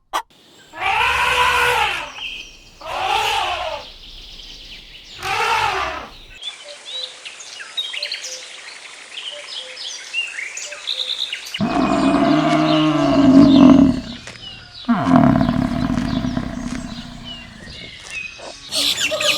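A run of different animal calls: three short calls that rise and fall in pitch, then a stretch of small bird chirps, then long, low calls in the second half.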